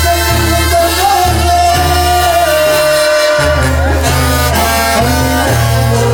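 A band playing Latin music: a held melody line over a bass that steps between sustained notes.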